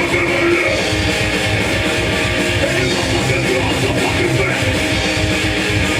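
Hardcore punk band playing live: loud distorted electric guitar strumming over bass and drums, dense and unbroken.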